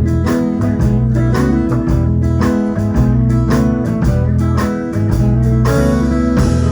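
Live band playing an instrumental stretch, with strong bass notes under a steady beat.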